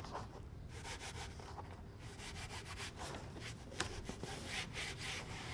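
Soft, irregular rubbing and scraping of hands working and smoothing convertible top fabric, with one sharper click a little before four seconds in.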